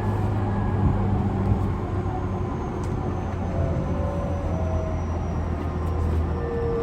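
Running sound inside a Tobu 50090-series electric train car: a steady low rumble and hum with faint whining motor tones that come and go. This car's traction motors are said to sound unusual, possibly a different motor type from the rest of the class.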